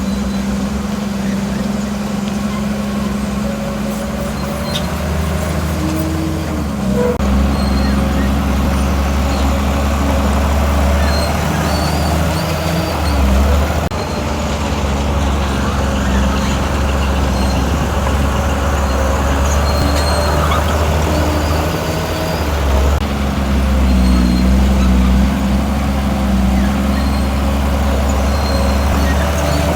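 Heavy diesel earthmoving machinery running under load, a deep steady engine drone that shifts in pitch and strength every several seconds as the load changes.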